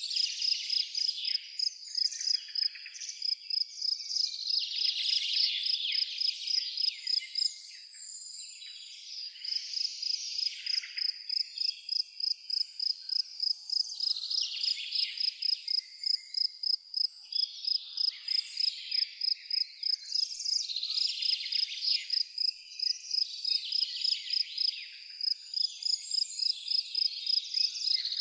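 Woodland ambience: a high, even chirp repeating a few times a second, like an insect's call, pausing briefly about eight seconds in, with bursts of bird calls over it.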